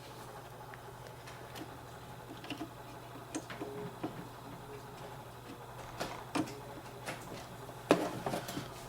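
Scattered light clicks and taps of computer hardware being handled and fitted as a motherboard and its mPCIe combo card go into a PC case, with a louder cluster of clicks near the end. A steady low hum runs underneath.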